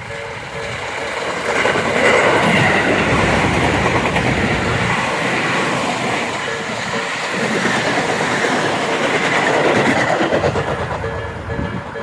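A Tobu Tojo Line train passing close by, its wheels clattering over the rail joints. It grows loud from about a second in and fades near the end. A repeating ringing tone is heard at the start and again as the train fades.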